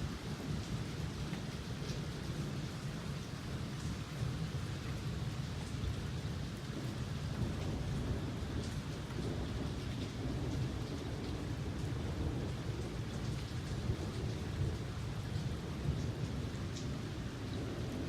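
Steady rain during a thunderstorm, with a continuous low rumble of thunder and scattered sharp drop ticks.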